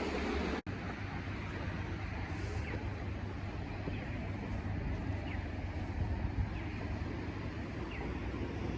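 Manyosen tram running on its rails: a steady low rumble, with faint short chirps every second or so. The sound drops out briefly just under a second in.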